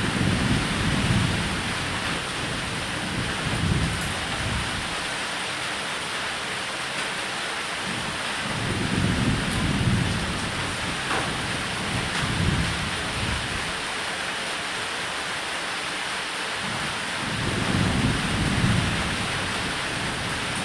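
Steady rain falling on a roof, a continuous even hiss, with low rolls of thunder that swell and fade several times.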